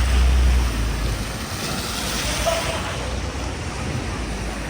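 Street traffic noise: a vehicle goes by, with a low rumble in the first second and a swell of tyre hiss near the middle.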